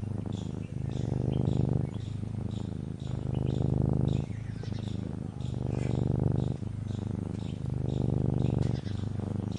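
Domestic cat purring close up, a low, steady rumble that swells and eases about every two seconds with its breathing. Small birds chirp faintly behind it.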